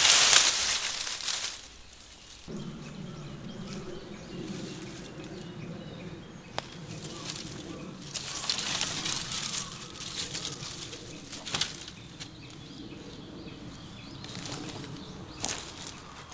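Fabric rustling and flapping as camp gear is handled, in bursts, the loudest at the start. A steady low hum starts abruptly about two and a half seconds in.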